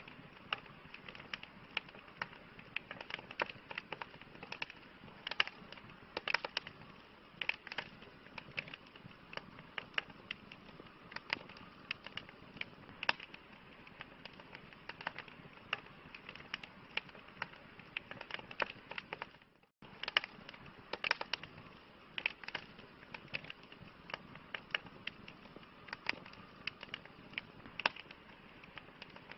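Campfire crackling: irregular sharp pops and snaps of burning wood over a soft steady hiss. The sound drops out for a split second about two-thirds of the way through.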